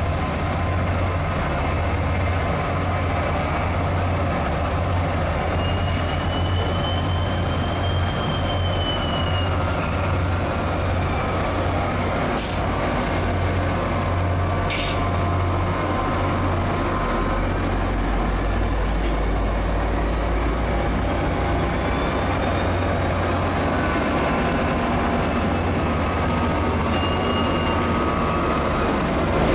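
NJ Transit diesel locomotive hauling a passenger train out of the yard: a steady low engine drone with rolling-train noise. A high wheel squeal rises and falls twice, and two sharp clicks come about halfway through.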